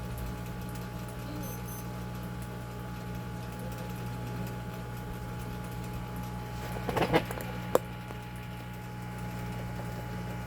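Hot air station's blower fan running with a steady hum, its air flow set to a moderate rate. About seven seconds in there is a brief rattle and then a single sharp click.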